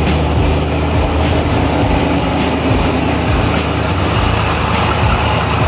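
C5 Corvette's LS V8 idling steadily with a low, even note.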